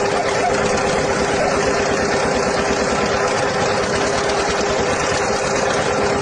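A motor-driven machine running steadily, with a constant hum and a fast even pulsing throughout.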